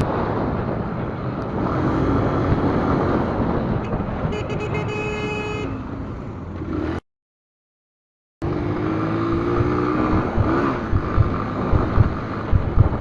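Road traffic noise with a vehicle horn sounding, broken by about a second and a half of dead silence at a cut. After it the traffic noise resumes, with a pulsing low thumping near the end.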